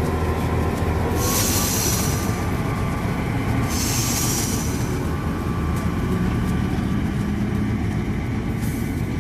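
Steam locomotive moving slowly on the tracks: a steady low rumble with two loud spells of high hiss, about a second in and about four seconds in, and a shorter one near the end.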